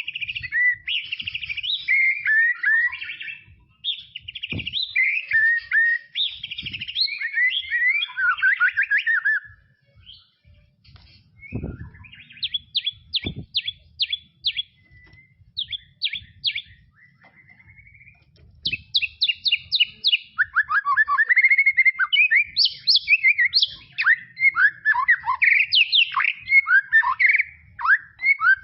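White-rumped shama singing a rich, varied whistled song of quick warbled phrases. About ten seconds in the song breaks off briefly, then turns to runs of rapid repeated notes before going back to fast, loud warbling.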